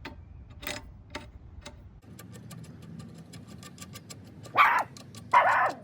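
A dog barks twice near the end, two short loud barks less than a second apart. Faint rapid clicking runs underneath before them.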